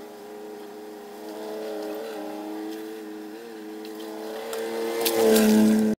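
Car engine running as a sedan drives toward the microphone: a steady low hum that grows louder over the last couple of seconds, with a brief crackle as it gets close, then cuts off suddenly.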